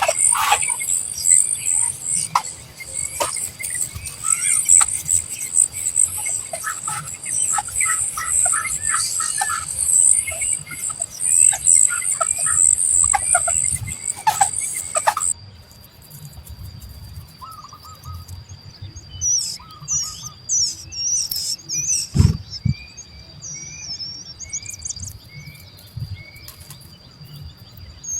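Young birds chirping, begging to be fed: a dense, unbroken high chirping that changes abruptly about halfway through to sparser, separate chirps. A single thump about three-quarters of the way in.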